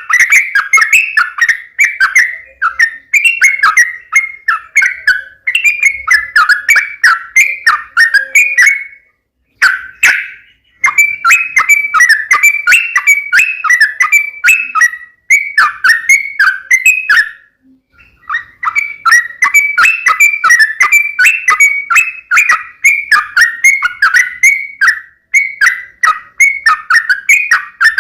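Yellow-vented bulbul (trucukan) singing hard and non-stop: rapid, loud, bubbly chattering phrases repeated over and over, broken by two short pauses, about ten seconds in and again a little past halfway.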